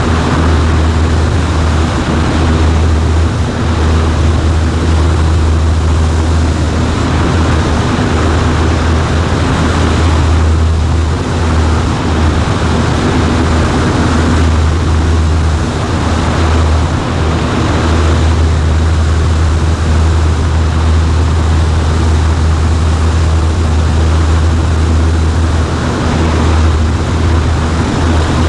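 Cessna 140A's piston engine and propeller running steadily as one continuous low drone, with a steady hiss over it.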